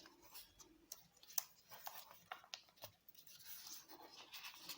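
Faint rustling and crinkling of origami paper being handled and folded by hand, with scattered small ticks and one slightly louder crackle about a second and a half in.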